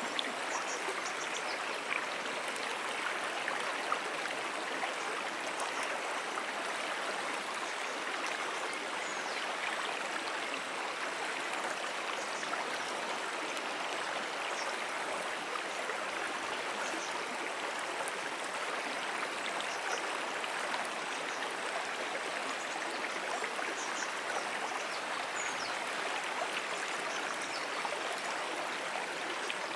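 A brook flowing steadily: an even, continuous rush of water. Faint high chirps sound now and then over it.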